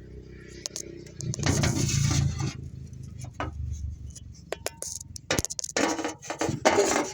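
Metal tools and engine-mount hardware clinking and scraping under hand work: scattered sharp clinks, a longer scraping stretch about a second in, then a quicker run of clinks and knocks in the second half.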